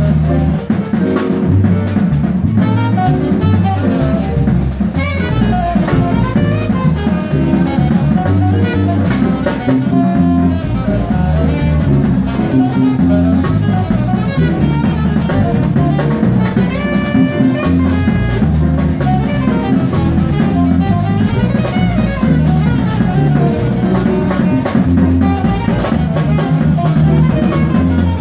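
A jazz group playing, with a prominent bass line moving note to note under a drum kit, and melodic lines above.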